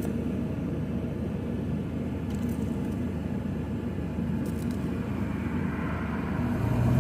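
Car running, a steady low rumble, with a low hum growing louder near the end.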